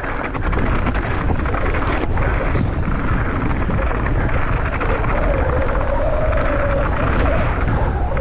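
Wind rushing over an action camera's microphone on a fast mountain-bike descent: a loud, steady rush with a few faint knocks.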